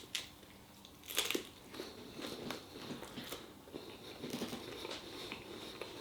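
A person biting and chewing a mouthful of chapatti wrap with crisp lettuce in it: a crunchy bite about a second in, then irregular chewing.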